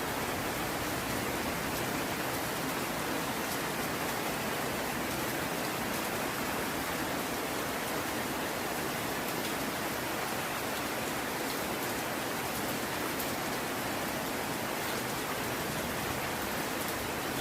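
Steady heavy rain falling, with faint scattered drop ticks over a continuous hiss.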